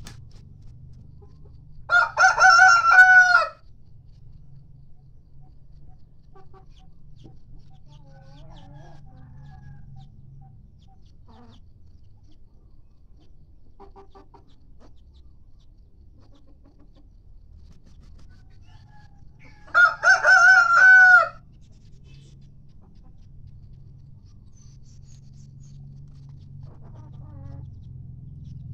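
Ayam kampung rooster crowing twice, each crow about a second and a half long, the second coming about eighteen seconds after the first. A faint low steady hum runs underneath.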